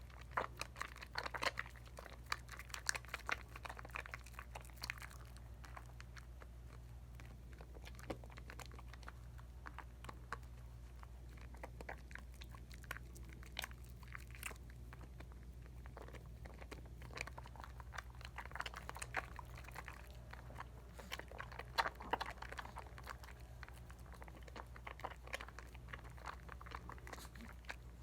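Dial coconut soap being lathered between wet hands: squishing and crackling suds with many small pops, busiest in the first five seconds and again about eighteen to twenty-three seconds in.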